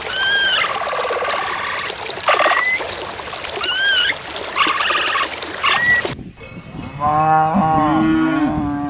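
A cow mooing: one long, low call beginning about seven seconds in. Before it, four short high calls that bend up and down sound over a loud rushing noise, then cut off suddenly.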